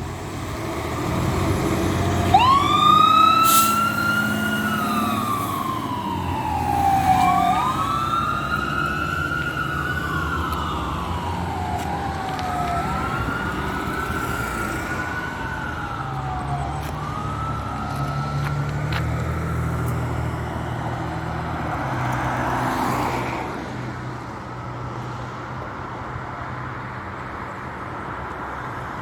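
Fire engine responding with its siren wailing, rising quickly and falling slowly several times over the low rumble of the truck's engine. The siren stops about two-thirds of the way in, and the truck's noise swells and fades shortly after.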